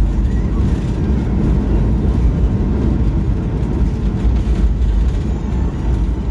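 Loud, steady low rumble of a Boeing 737's engines and airframe heard from inside the passenger cabin around landing.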